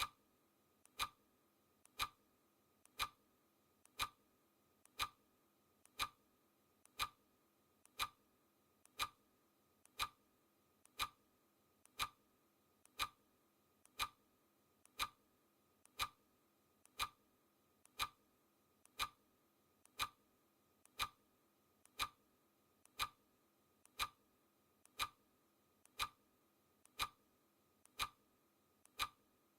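Clock ticking sound effect: a steady tick-tock, one loud tick every second with a softer tock halfway between.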